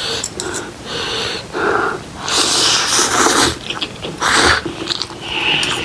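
Instant ramen noodles being slurped through the mouth in several noisy pulls, the longest and loudest a couple of seconds in, with a short one near the end.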